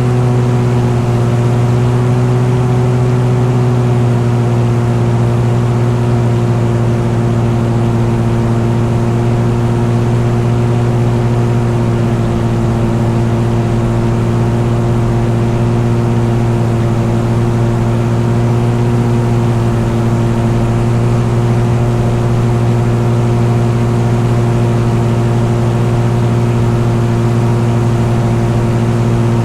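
An engine running at a constant speed: a steady, unchanging drone with a strong low hum and evenly spaced overtones, and no change in pitch or level throughout.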